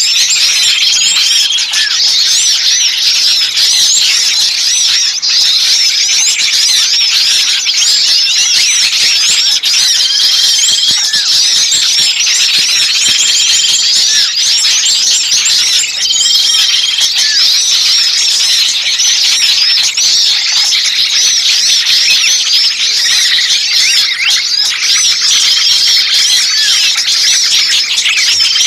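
A dense chorus of many small songbirds chattering and calling at once, with a short flat whistled note recurring every few seconds. It is a bird-lure recording of agitated, noisy small birds, the kind played to draw other birds in.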